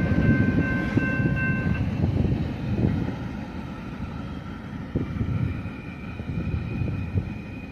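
Freight train cars rolling past: a steady rumble of wheels with scattered clicks over the rail joints, slowly fading. A high ringing of several steady tones stops about two seconds in.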